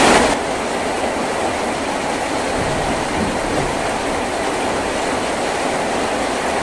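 Heavy rain falling on a tin roof, a steady even rush of noise. It drops suddenly to a lower level just after the start, then holds steady.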